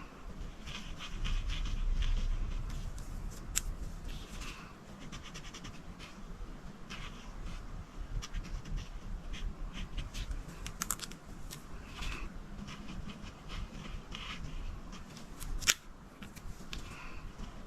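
Coloring on a paper page: short, irregular scratchy strokes of a coloring tool, with a couple of sharp taps.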